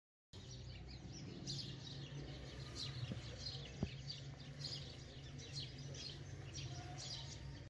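Faint birds chirping in the background, short high chirps once or twice a second, over a low steady hum, with one light click about halfway through.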